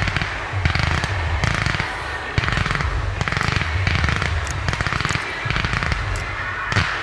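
Fireworks going off: dense, rapid crackling in repeated bursts about once a second, with low thuds beneath.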